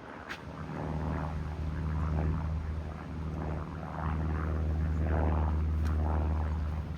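Cessna 150's four-cylinder Continental O-200 engine and two-blade propeller droning steadily as the light aircraft flies past, with gusts of wind rumbling on the microphone. The drone swells about a second in, grows louder again about four seconds in, and starts to fade near the end.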